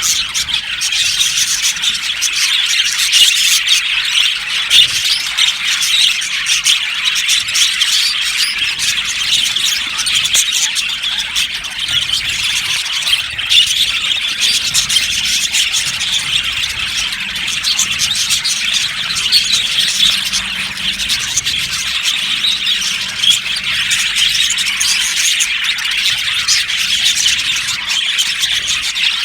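A flock of budgerigars chattering and chirping together without a break: a dense, steady mass of high-pitched calls and squeaks.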